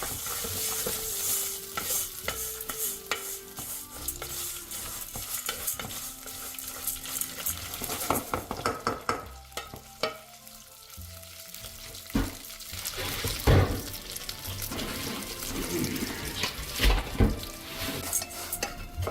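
Meat sizzling as it fries, with repeated scrapes and knocks of a utensil stirring and turning it.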